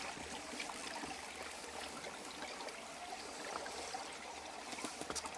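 Steady rushing water noise, with a few faint dolphin clicks near the end.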